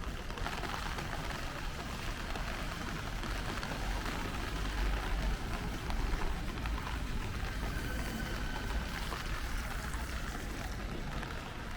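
Steady rain falling on a city street, with a continuous low rumble underneath.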